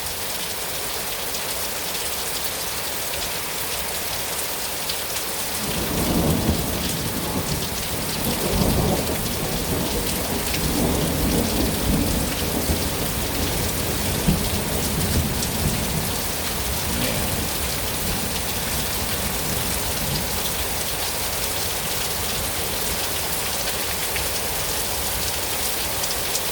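Heavy rain pouring down steadily. About six seconds in, a long rolling rumble of thunder builds and swells several times before fading out some ten seconds later.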